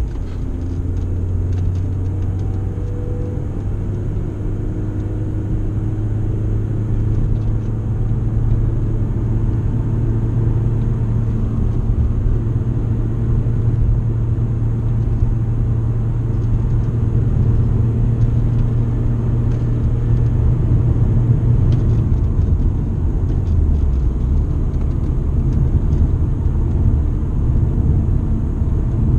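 BMW E36 3 Series engine heard from inside the cabin, a loud low drone at steady revs. About 23 seconds in its pitch drops as the revs fall.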